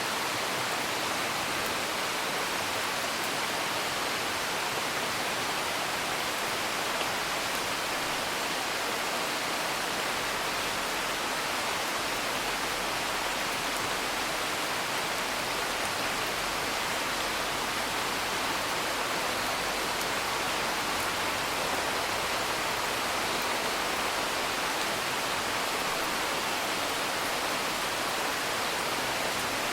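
Steady rain, an even hiss that does not change, with no thunder.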